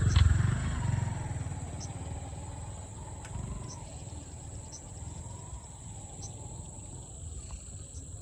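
A large animal's deep, pulsing growl, loudest in the first second and then fading to a low rumble.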